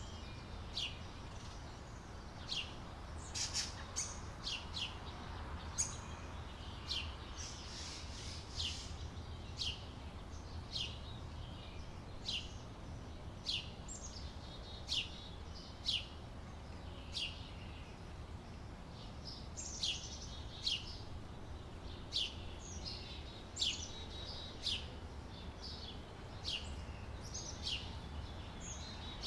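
Outdoor summer ambience of birds chirping: short, sharp, downward-sweeping chirps about once a second, sometimes several close together, over a steady low rumble.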